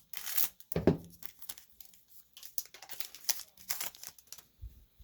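WWE trading cards and their pack being handled and flipped through by hand: a run of short, irregular rustles and crinkles.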